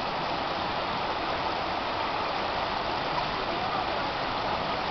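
Creek water running steadily, an even, unbroken sound of flowing water.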